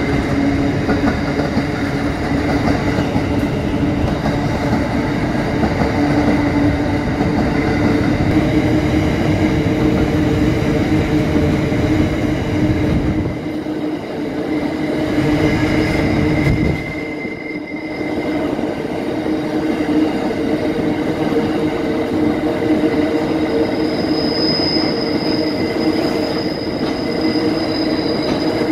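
Empty coal hopper wagons of a freight train rolling past: a steady, loud rumble of steel wheels on rail with ringing tones from the wheels. A high wheel squeal comes in near the end.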